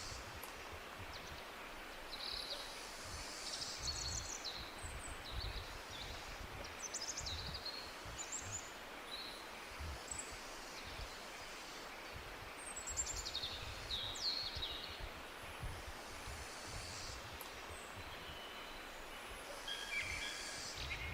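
Several forest birds chirping and singing, short calls and quick trills coming in scattered bursts, over a steady hiss and an uneven low rumble of outdoor background noise.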